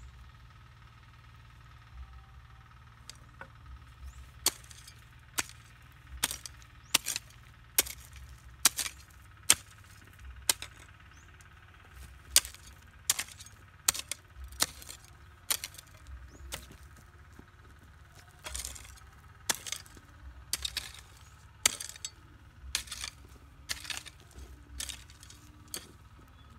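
A long series of sharp clinking strikes, irregular, about one or two a second, over a faint steady low hum.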